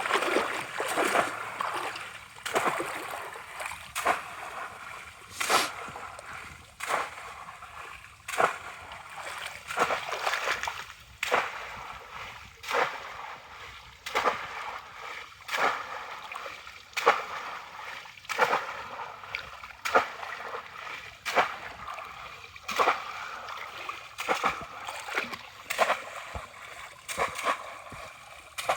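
Water splashing in a steady series of sharp strokes, about one every second and a half.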